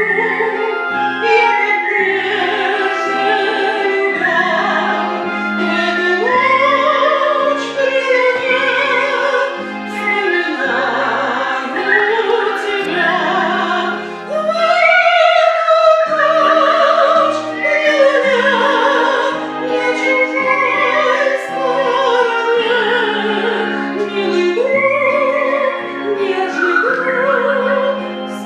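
Music: a classical-style singing voice with wide vibrato over piano accompaniment.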